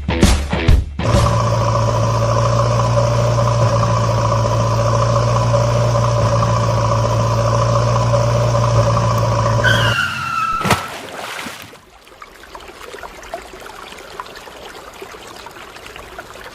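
A loud steady engine-like hum with a few held tones. About ten seconds in it stops after a short falling tone and a click, and fainter irregular noise follows.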